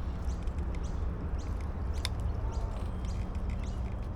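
Many birds chirping, a dense run of short, quick calls, over a steady low rumble, with one sharp click about two seconds in.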